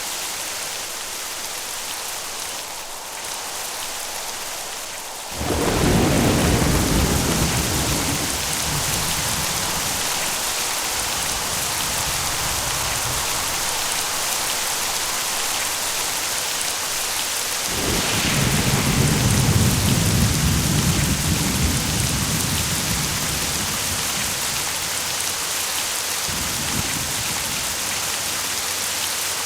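Steady heavy rain with rolling thunder. One deep rumble breaks in suddenly about five seconds in and fades over several seconds, and a second rumble begins past the middle and also rolls away.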